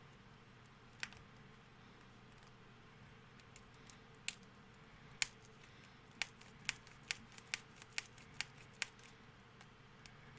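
Sharp clicks from handling a CD box set's packaging. A few come scattered, then a quick run of about seven, roughly two a second.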